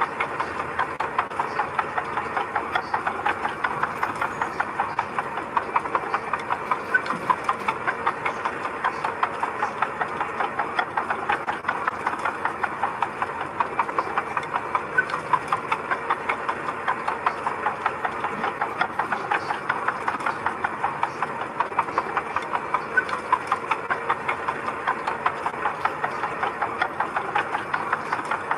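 Diesel engine of a piece of heavy construction machinery running steadily, with a rapid, even clatter that holds the same pace throughout.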